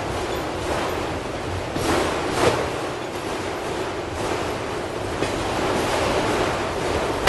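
Auto train rolling past: a steady rush of steel wheels on rail, with a few sharp clanks, the loudest about two and a half seconds in.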